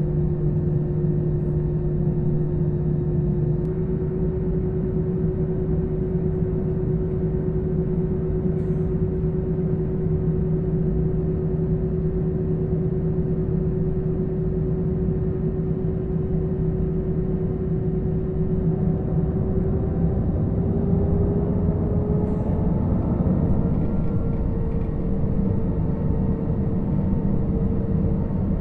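Airliner's jet engines humming steadily over a low rumble, heard inside the cabin; about twenty seconds in, the engine tones rise in pitch and settle higher.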